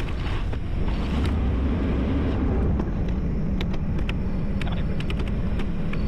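Kubota skid steer's diesel engine running steadily under load while grading, with scattered sharp clicks and clatter over the drone.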